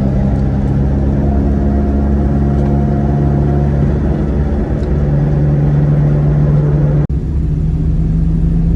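Heavy truck's engine running steadily with a low drone, the pitch shifting slightly. About seven seconds in the sound drops out for an instant and comes back duller.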